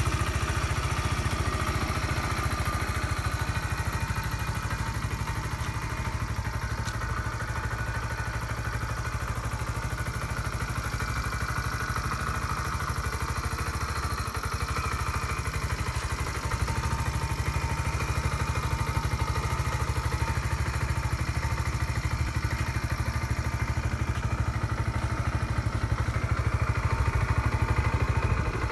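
Kawasaki Z125 PRO's 125 cc single-cylinder four-stroke engine idling steadily. It gets slightly louder a little past halfway.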